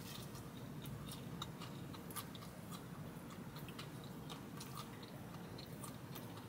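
Faint chewing of a mouthful of pepperoni pizza with crust, with small scattered wet mouth clicks.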